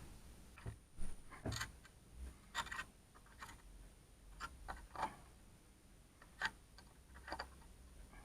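Irregular sharp crackles and clicks over a faint low hum from a wall socket with a loosely connected wire: arcing at the loose connection, the cause of the buzzing heard through the laptop charger.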